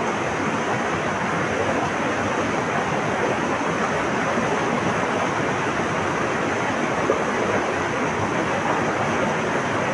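Flowing water rushing steadily, an even, unbroken noise.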